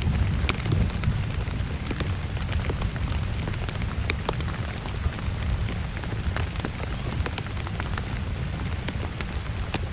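Rain falling steadily, with many single drops striking sharply close by over a low, even rumble.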